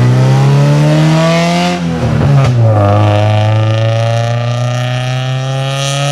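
Slammed EK Honda Civic sedan accelerating hard, engine and exhaust rising in pitch. About two seconds in there is a quick gear change, then the pitch climbs again more slowly in the next gear.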